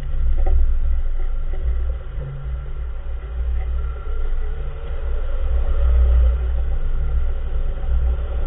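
2014 Nissan March on the move, a heavy low rumble that swells and fades, with a faint knock about half a second in. The car has a clunking noise from a front wheel whose cause the owner cannot identify.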